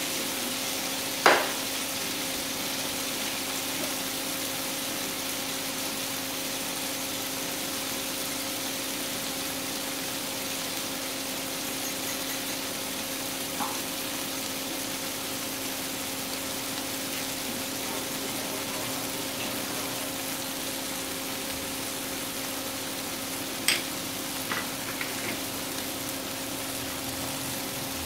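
Chopped tomatoes and spice paste sizzling steadily in oil in a non-stick kadai as they fry down into a masala, over a steady hum. A sharp knock about a second in and a few smaller clicks near the end.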